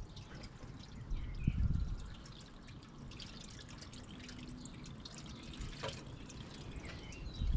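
Liquid dripping and trickling as coolant goes into the car's cooling system while it is filled and bled, with a low thump about a second and a half in.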